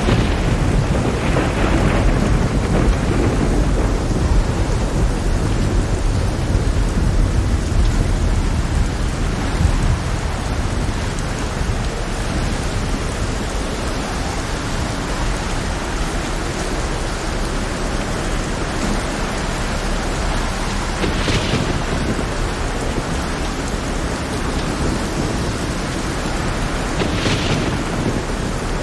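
Heavy rain falling steadily with deep rumbling thunder, the rumble strongest over the first ten seconds. Two short hissing bursts stand out in the second half.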